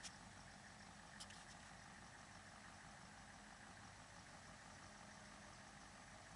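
Old 4x4 truck engine idling faintly and steadily, with one small click about a second in.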